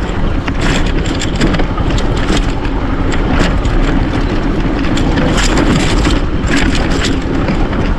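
Wind buffeting the microphone in a steady loud rumble, with scattered short crunches and rustles.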